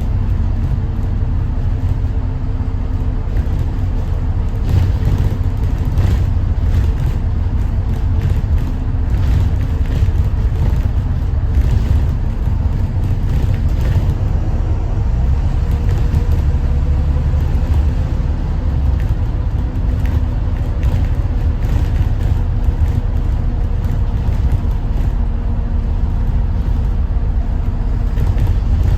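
Thomas Saf-T-Liner C2 school bus under way, its Detroit diesel engine running with a steady low rumble and road noise, the engine note drifting slightly in pitch midway, with occasional light rattles.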